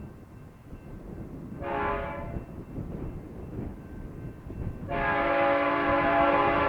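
Diesel locomotive air horn on a BNSF freight train: a short blast, then after a pause a longer, louder blast that is still sounding at the end, over the low rumble of the passing train.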